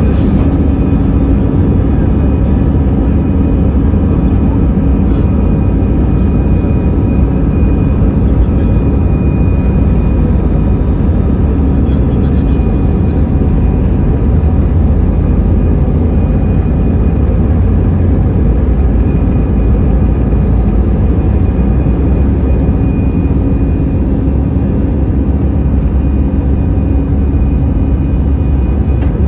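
Airbus A320 cabin noise: the CFM56 engines and airflow make a loud, steady roar, with a steady high engine whine running through it.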